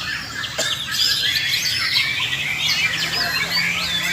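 Several white-rumped shamas (murai batu) singing at once in a contest-style chorus: a dense, unbroken tangle of overlapping whistles, chirps and trills.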